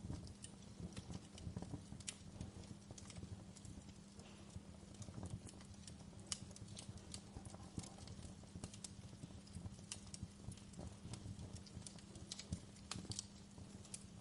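Wood fire crackling in a fireplace: irregular sharp pops and snaps over a low rumble of burning logs, with a faint steady low hum beneath.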